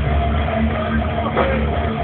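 Loud rock music with guitar, bass and drums, as from a band at a soundcheck, recorded on a phone so the sound is dull, with nothing above the mid treble.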